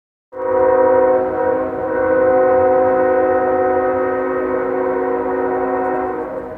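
Freight locomotive's multi-chime air horn sounding one long blast, a steady chord of several notes that starts abruptly and fades out near the end, over the low rumble of the train.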